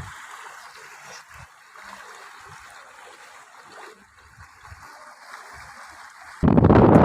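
Water lapping and trickling gently against a stopped boat. About six seconds in, a loud steady rushing noise cuts in suddenly.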